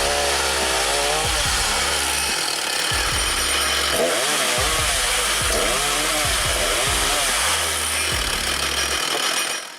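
Powered firewood saw running and cutting wood, its pitch dipping and recovering again and again as it bogs into each cut. It stops abruptly at the very end.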